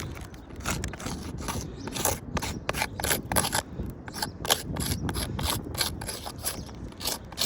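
Irregular gritty scraping, rubbing and clicking on a 3-tab asphalt shingle roof, with many short sharp clicks, as the shingles are handled and moved over.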